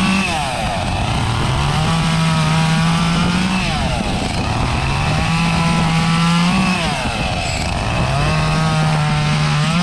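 Echo CS-352 two-stroke chainsaw revved to full speed and held about two seconds, then dropping back, four times over.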